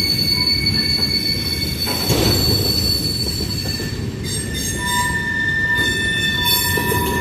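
CSX freight train cars rolling past with a low rumble of wheels on rail and high-pitched wheel squeal: several steady squealing tones that change pitch and start and stop as the cars go by, the wheels scraping on a curved section of track.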